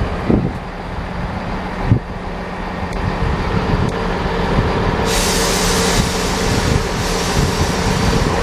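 Class 158 diesel multiple unit's engines running steadily at the platform. About five seconds in, a loud hiss of air starts suddenly and keeps going.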